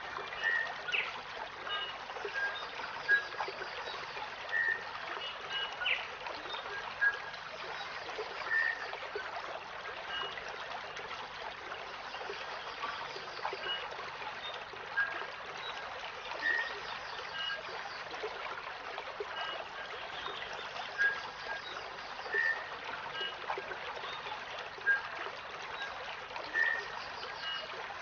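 Wild bird calling in short clear notes, repeated about every two seconds, over a steady rush of flowing water.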